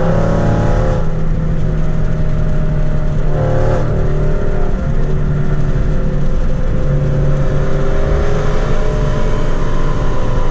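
A naturally aspirated car engine at full throttle, heard from inside the cabin, pulling up through the gears of a Ford 10R80 ten-speed automatic. There are quick upshifts near the start and about three and a half seconds in, then a long, steadily rising pull.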